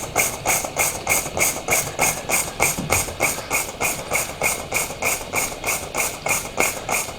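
Small live-steam model engines running slowly on low steam pressure, with a steady rhythmic chuff and squeal about three to four times a second. This is the chop of the poppet valves at slow running.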